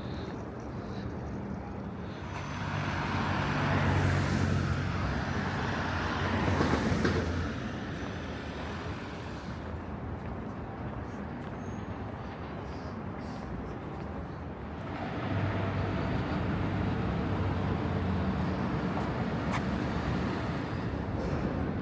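City road traffic: a vehicle's engine hum and tyre noise swell and pass a few seconds in, and a second low engine hum rises about fifteen seconds in and holds.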